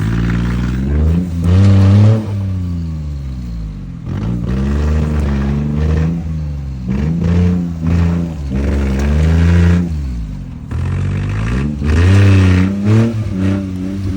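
Kei truck engine revving up and dropping back again and again, its pitch rising and falling several times.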